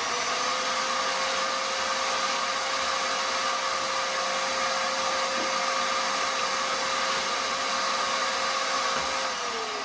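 Table saw with a freshly fitted blade running at full speed: a steady motor whine and blade noise that reaches speed right at the start, holds, and is switched off near the end, winding down with a falling pitch.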